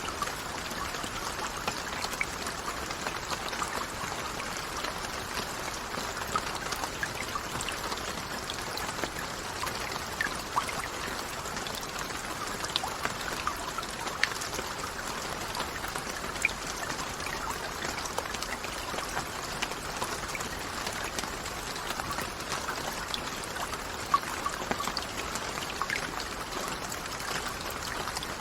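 Steady rain falling: an even, unbroken hiss with many scattered individual drops ticking sharply over it.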